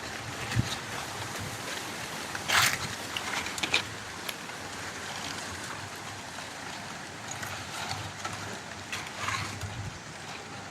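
Footsteps crunching on dry leaves in irregular crackly rustles, the loudest about two and a half seconds in. Under them, wind moves through the trees, with a low rumble of wind on the microphone.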